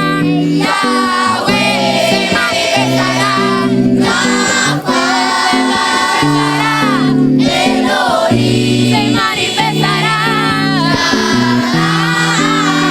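Christian worship song: several voices singing together over held instrumental chords.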